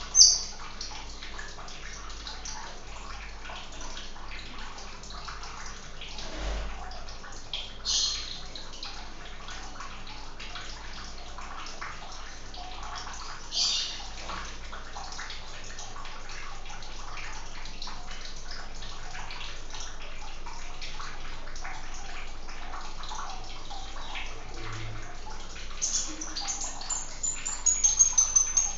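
Steady running, trickling water. A small bird gives short high chirps right at the start, at about 8 and 14 seconds in, and a quick run of chirps near the end.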